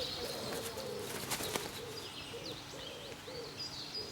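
Birds calling: a short, low cooing note repeated about two to three times a second, with thin high chirps above it.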